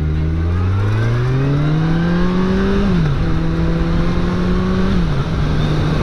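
Motorcycle engine accelerating, its pitch climbing for about three seconds, then dropping sharply twice, near three and five seconds in, as it shifts up and holds a steady note between shifts.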